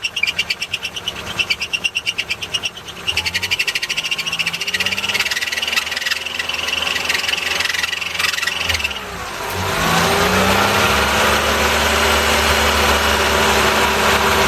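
1988 Toyota Hiace engine running with the air-conditioning switched on; its worn aircon belt slips under the compressor load, chirping rapidly for the first few seconds, then giving a steady high squeal. About nine seconds in, the squeal stops, and the engine note rises and settles louder.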